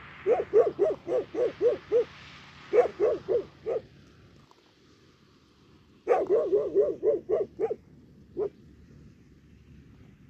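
Dog barking in quick runs of short, sharp barks, about four a second: two runs, a pause of about two seconds, then another run and a single last bark.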